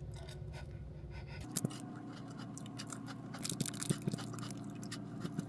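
A person chewing crisp Kukudas biscuits close to the microphone: soft, irregular crunches and clicks that start about a second and a half in, over a faint steady hum.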